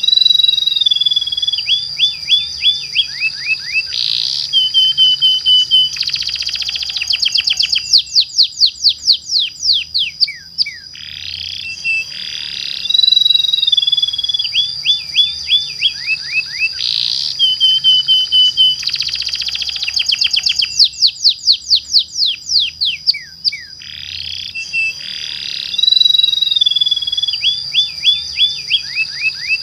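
Domestic canary singing a long, rolling song of rapid trills and quick falling notes over a steady high whistle-like tone. The same song phrase repeats about every twelve seconds.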